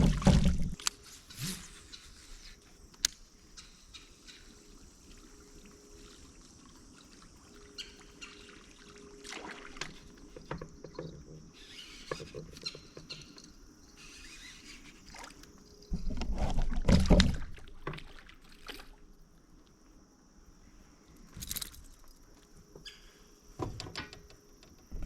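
Scattered knocks and clicks from handling in a small fishing boat, with a louder low thump around two-thirds of the way through, over a steady high-pitched drone of insects.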